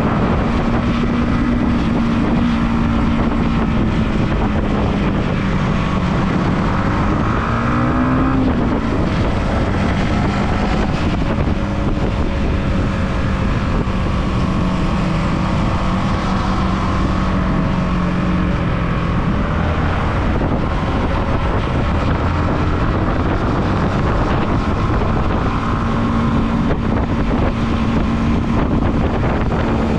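Motorcycle engine running at road speed with heavy wind noise on the microphone; the engine note climbs briefly about eight seconds in.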